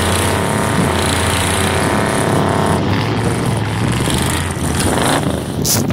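Straight-piped 6.0-litre V8 of a 1999 Chevy Silverado running with a steady low exhaust note; the engine sound changes about three seconds in, and a short sharp noise comes near the end.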